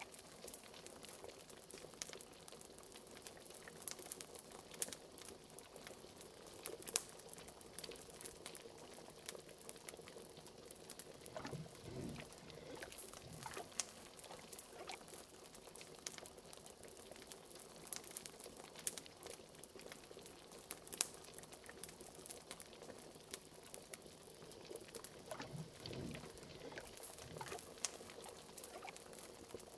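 Liquid bubbling in a pot, with gurgling pops that bend in pitch, together with the frequent sharp snaps of a crackling wood fire.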